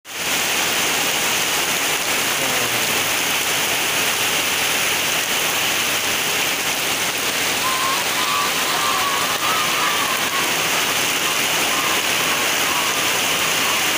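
Heavy rain pouring down steadily onto corrugated metal roofs and a dirt yard, a dense unbroken hiss.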